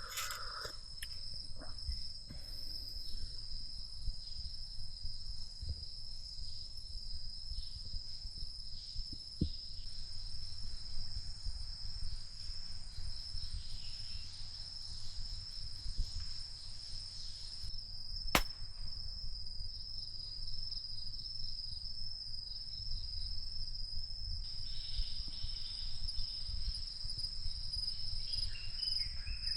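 Forest insects, crickets or cicadas, keeping up a steady high-pitched trill. A single sharp click about eighteen seconds in.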